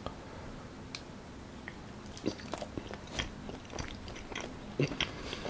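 A person chewing a soft strawberry rice cake (strawberry chapssaltteok) close to the microphone, with irregular sharp mouth clicks starting about two seconds in.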